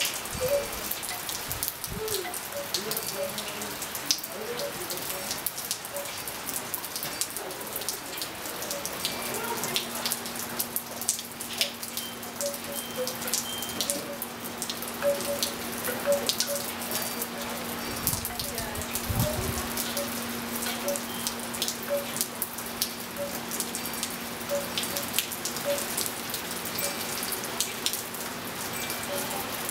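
Steady rain with many close drops and drips, and now and then a short, faint ring from hanging tube wind chimes. A steady low hum joins about nine seconds in.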